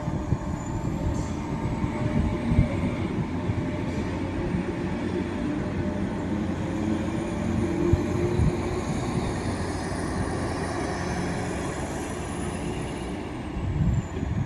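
Diesel passenger train running on the line: a steady rumble with a thin high whine that falls in pitch near the end.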